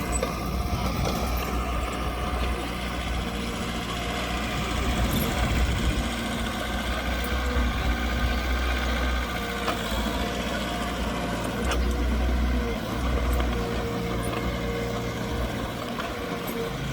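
Diesel engine of heavy earthmoving machinery running steadily, with a few light clicks now and then.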